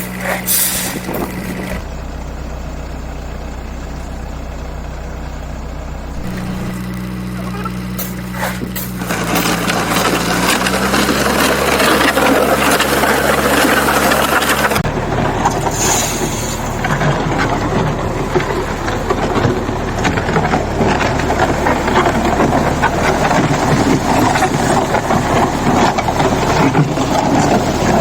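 Diesel engine of a JCB backhoe loader running, with steady low engine tones. From about nine seconds in a louder, rougher mechanical noise joins in, and the sound changes abruptly a few times.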